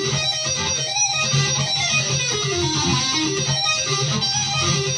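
Guitar playing a fast lick, with quick runs of notes falling in pitch.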